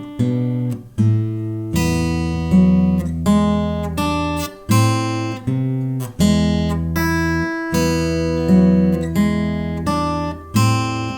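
Six-string acoustic guitar playing a slow written passage: a steady succession of plucked notes and chords, each attack ringing and fading, with bass notes sustained beneath.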